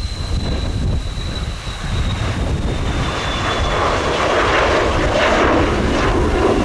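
Mitsubishi F-2 fighter's jet engine on landing approach, a steady rumble under a high whine that slowly falls in pitch, the noise growing louder after the middle.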